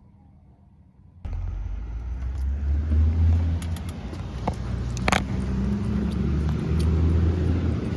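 Vehicle engine and road rumble heard from inside while driving, starting abruptly about a second in and running steadily, with a sharp click or rattle about five seconds in.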